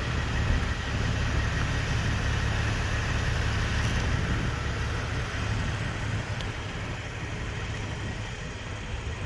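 Passenger stair truck's engine running steadily, a low even hum that grows a little quieter over the last few seconds.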